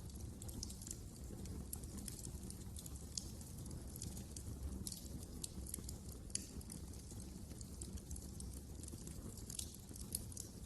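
Wood fire crackling steadily, with irregular small snaps and pops over a low, steady rumble of the flames.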